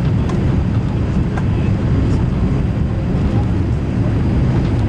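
Steady low rumble of a Boeing 787-8 heard from inside the passenger cabin: engine and airflow noise, with a couple of faint clicks.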